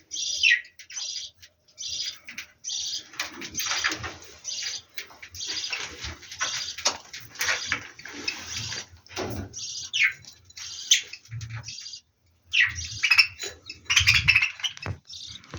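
Budgerigars chirping and chattering in many short, quick calls, with rustling noise mixed in through the middle stretch and a brief pause about twelve seconds in.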